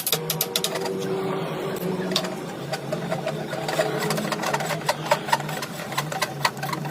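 A motor-driven workshop machine running steadily with a low hum, over many irregular sharp clicks and knocks.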